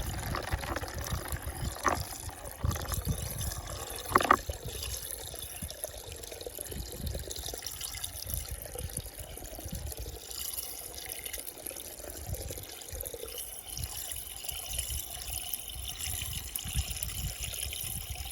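Water swirling and draining down a whirlpool hole, a steady trickling and gurgling, with two brief louder blips about two and four seconds in.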